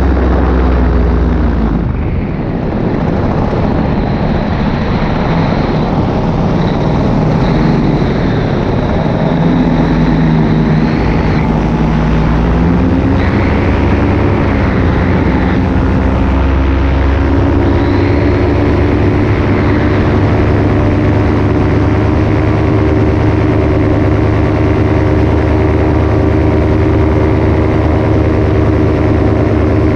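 Paramotor engine and propeller running steadily in flight. It is throttled back briefly about two seconds in, its pitch wavers for a few seconds near the middle, then it holds steady.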